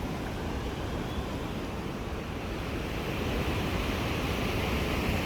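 Water rushing steadily through the dam, growing slightly louder toward the end, with wind buffeting the microphone.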